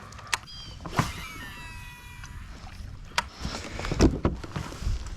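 Shimano Curado DC baitcasting reel on a cast: a click, then the reel's electronic brake whining and slowly falling in pitch as the spool slows. A few seconds later come low knocks and thumps against the kayak hull.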